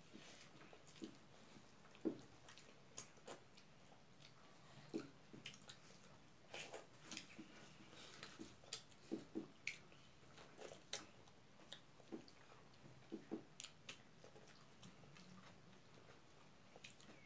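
Close-up chewing and mouth smacking of people eating rice and salad by hand: scattered soft wet smacks and clicks, some in quick pairs, with a sharper one about two seconds in and another near the middle.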